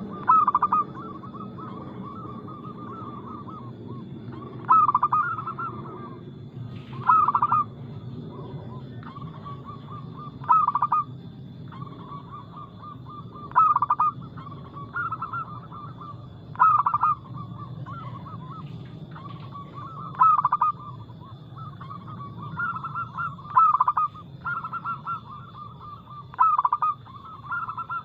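Zebra doves (perkutut) cooing: a continuous run of rapid staccato notes, broken about every three seconds by a louder accented phrase. A faint steady high tone runs underneath.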